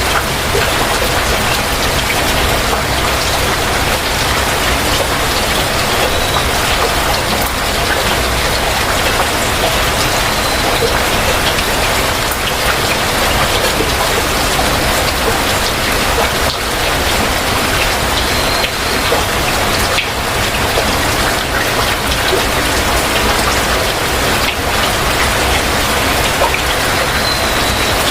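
Heavy rain falling steadily, a dense even patter, with a few brief faint high tones heard four times.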